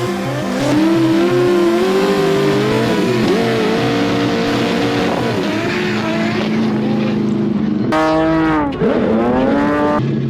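Drift car engine revving hard through a drift, its pitch rising and falling, with tyres squealing. Near the end the revs drop sharply and climb straight back up.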